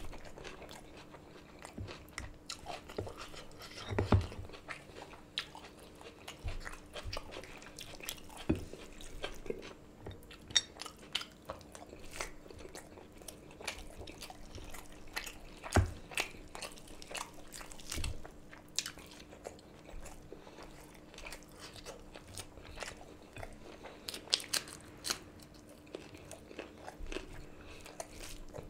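Close-miked eating sounds of rice and curry eaten by hand: chewing, biting and wet mouth smacks, with a hand squishing rice and curry on the plate. Sharp clicks come at irregular intervals, the loudest about 4 seconds and 16 seconds in, over a faint steady hum.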